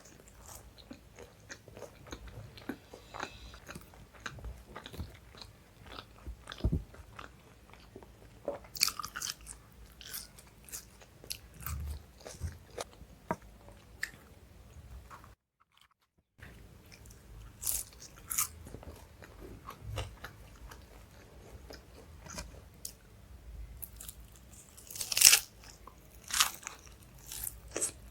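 Close-miked eating of chole bhature and rice: chewing, wet mouth smacks and bites, with scattered sharp clicks. It drops to dead silence for about a second midway, and the loudest bites and smacks come near the end.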